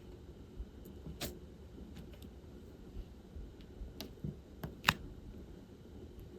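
Light, scattered clicks and taps of diamond painting work, the plastic drill pen and resin drills against the canvas and tray, with the loudest click about five seconds in.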